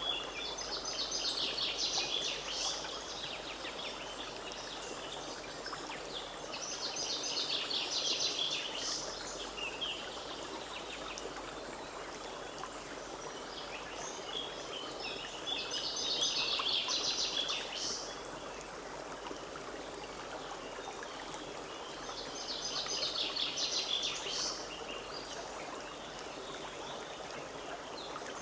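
Forest stream running steadily, with a songbird repeating a fast, high song phrase four times, about every seven seconds.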